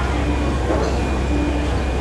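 Busy market ambience: a constant low hum under a general din of background voices.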